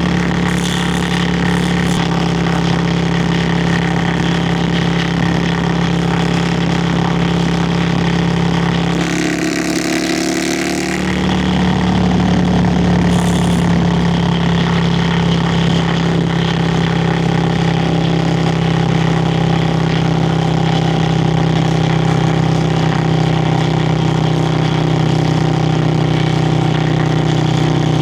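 Yamaha Virago XV535's V-twin exhaust running steadily under way. About a third of the way in the engine note breaks for a couple of seconds under a rush of hiss, then picks up again a little louder.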